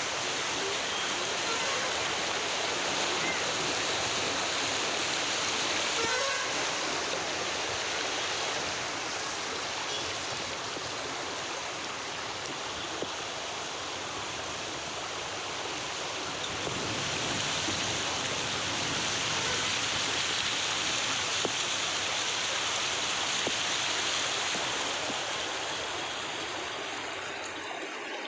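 Steady rush of water, an even hiss without breaks, as of heavy rain or floodwater running through the streets.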